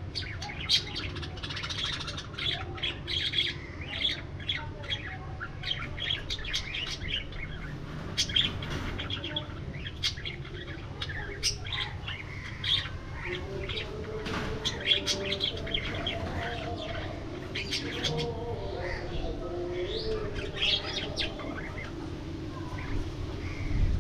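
A flock of budgerigars chirping and chattering, many short overlapping calls, over a steady low rumble.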